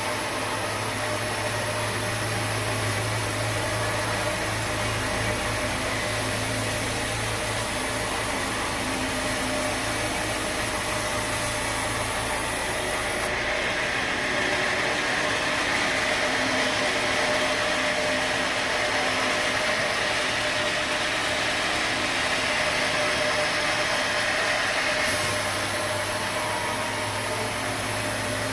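Sawmill machinery running steadily, a continuous mechanical drone with a few steady hums. The sound changes abruptly about halfway through and again near the end.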